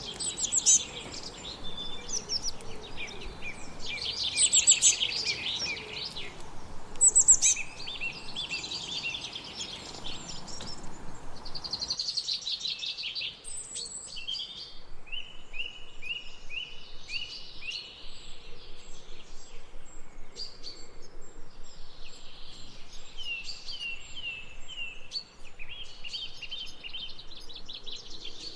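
Several songbirds singing and chirping in a varied chorus, with runs of quick repeated notes, over a steady low hiss that drops away about twelve seconds in.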